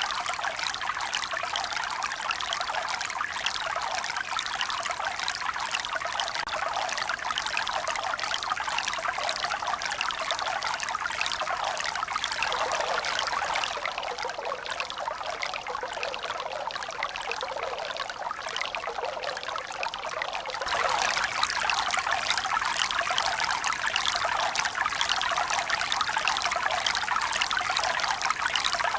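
Steady running water, an even trickling flow with hardly any bass; about two-thirds of the way through it suddenly gets louder and brighter.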